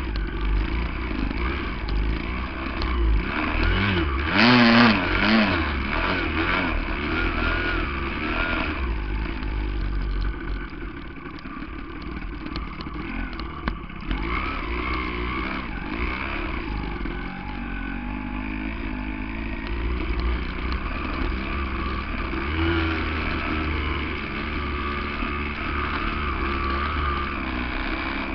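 Yamaha 175 two-stroke dirt bike engine running and being revved up and down, with the loudest, highest rev about four to five seconds in.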